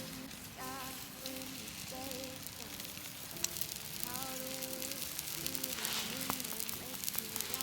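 Steady sizzling and crackling with many small scattered pops, under background music playing a slow melody of sustained notes.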